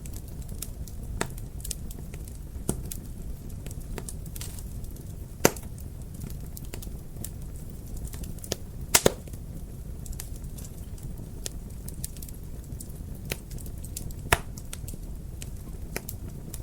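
Wood fire crackling over a steady low rumble, with scattered sharp pops, the loudest about five seconds in, a quick double pop about nine seconds in and another near fourteen seconds.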